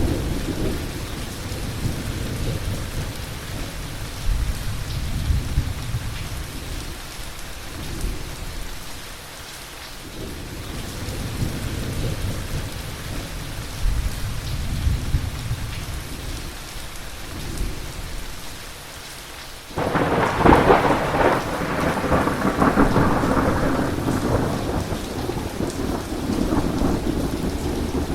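Heavy thunderstorm: rain hissing steadily while thunder rumbles low and rolls in waves. About two-thirds of the way through, a sudden loud thunderclap breaks and keeps rolling, louder, to the end.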